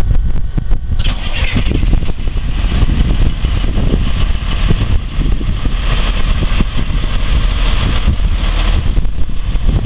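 International DT466 diesel engine of a 1993 Blue Bird school bus running, with a deep steady rumble. A high beep sounds once right at the start and stops, and about a second in a louder hiss joins the engine and carries on.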